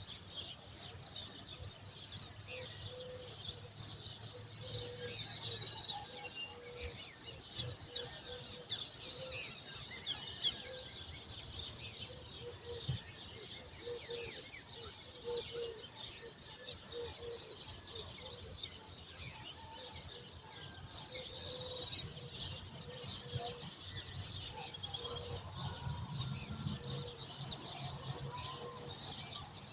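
Many small birds chirping and calling together in a dawn chorus, busy throughout, with a lower note repeated again and again beneath them. A faint low rumble swells near the start and again near the end.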